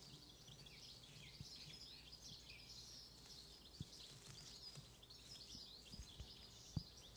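Faint birdsong: many small high chirps over a low outdoor hush, with a few soft low thumps.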